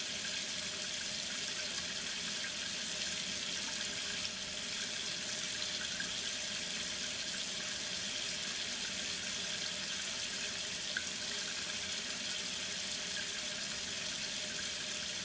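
Water running steadily in a bathroom, an even hiss without a break.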